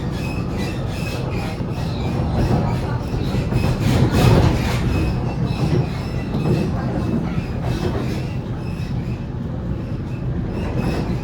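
Waratah A set double-deck electric train running, heard from inside the carriage: a steady rumble of wheels on track with a regular clicking about three times a second and a faint high tone coming and going. The rumble swells briefly about four seconds in.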